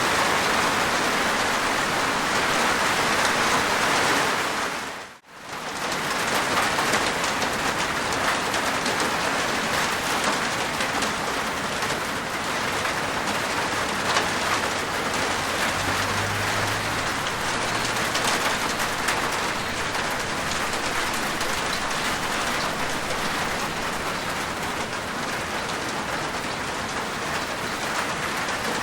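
Steady heavy rain falling on a rooftop, a dense even patter of drops. About five seconds in the rain briefly fades almost to nothing and comes straight back, and a short low rumble sounds around the middle.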